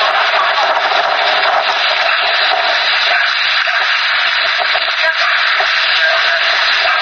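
Steady, thin hiss like radio static, confined to a narrow middle band, with no distinct events.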